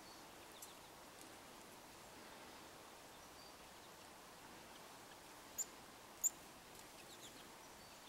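Faint outdoor hush with two short, very high-pitched bird chirps a little under a second apart, about two-thirds of the way in, and a few fainter high notes and ticks.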